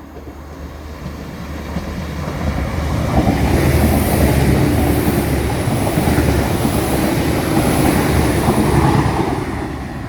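Six-car Northern Ireland Railways diesel multiple unit passing along the platform: its rumble and rail noise build up over the first few seconds, hold loud with a high hiss on top, then ease off near the end.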